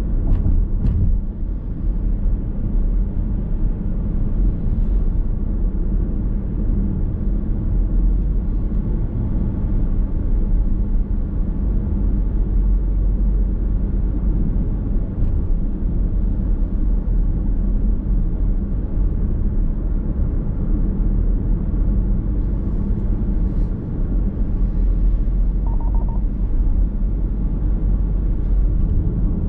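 Steady low rumble of a car's road and tyre noise heard inside the cabin while driving, with a few faint ticks.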